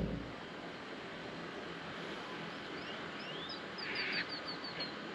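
A bird calling: a quick run of about eight short, high chirps, starting about two and a half seconds in, over a faint steady hiss.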